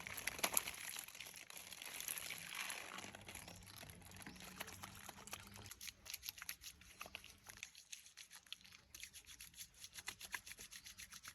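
Faint crackling, rustling and scraping of something being handled, with many small clicks that come thicker and sharper in the second half.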